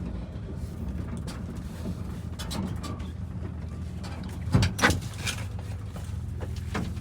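The 1976 Dodge W600 Power Wagon's 5.9 New Holland combine diesel running steadily, with a couple of sharp knocks about two-thirds of the way in.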